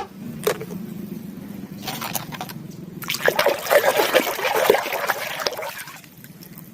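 Water trickling and splashing as a muddy toy animal is washed by hand, with a few light clicks and knocks of the toy being handled; it grows busier midway and dies down near the end.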